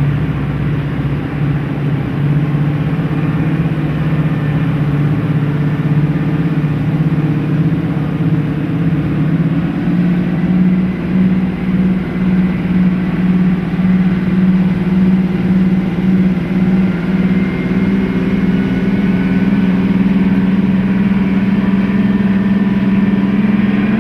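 Class 55 Deltic locomotive's twin Napier Deltic two-stroke diesel engines running under power, their steady drone rising slowly in pitch as the engines pick up speed. For several seconds midway the sound throbs with an even pulsing beat.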